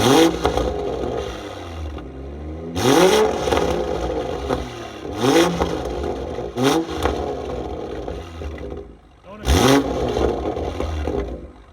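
BMW M340i's turbocharged inline-six revved through a newly fitted exhaust: about five quick throttle blips, each a sharp rise in pitch that falls back toward idle.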